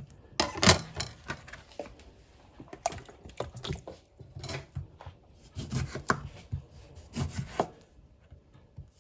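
Knife slicing lemons and limes on a cutting board: irregular cuts and knocks of the blade on the board, separated by short pauses.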